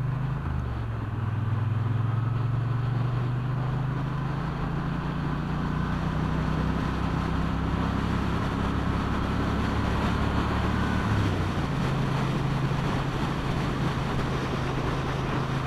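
Motorcycle engine running steadily under way, with road and wind noise. Its note shifts pitch about a second in and again about eleven seconds in.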